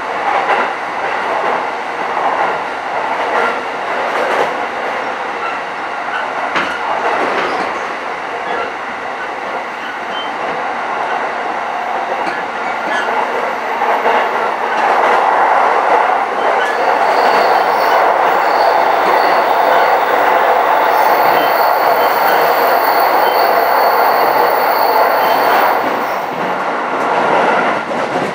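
JR East E233-series electric commuter train heard from inside the car while running: a steady rumble of wheels on rail with occasional faint knocks. It grows louder about halfway through, and a high thin whine runs for several seconds before easing off near the end.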